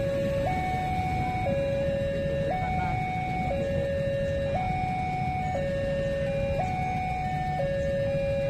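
Two-tone hi-lo siren, alternating between a lower and a higher note, each held about a second, over a steady low rumble.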